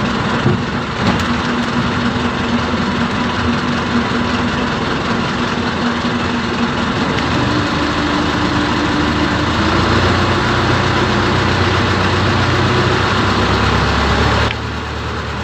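Boat engine running steadily; its note steps up about halfway through and grows heavier, then the sound drops abruptly near the end.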